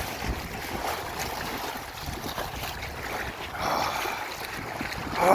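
Wind buffeting the microphone over the wash of moving water, with a brief louder swell about three and a half seconds in.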